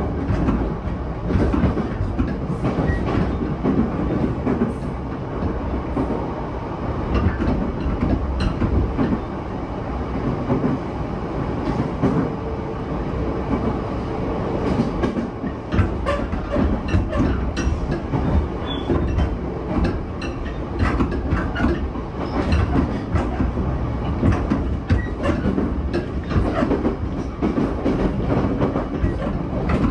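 Running noise inside the passenger car of a JR East E233-7000 series electric train travelling at speed: a steady rumble from the wheels on the rails with frequent short clicks and knocks.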